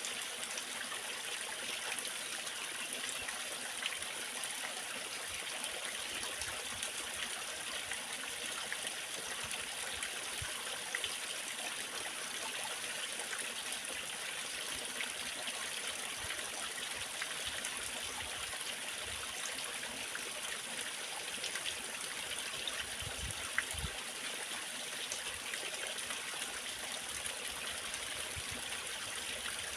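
Waterfall: water falling and splashing, a steady, unchanging wash of noise.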